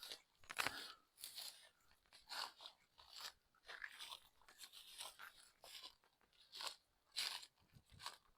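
Footsteps crunching through dry grass and weeds, an irregular run of faint crackling steps.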